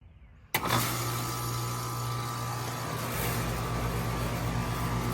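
2004 Lennox Elite Series 2.5-ton air conditioner with a Copeland scroll compressor starting up: the unit kicks on abruptly about half a second in, then runs with a steady electrical hum and a whooshing rush of noise.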